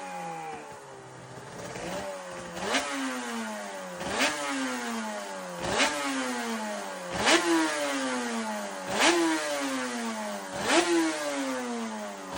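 Suter MX 500 two-stroke racing motorcycle engine revving. Its pitch jumps up sharply and then winds down, over and over, about every one and a half seconds.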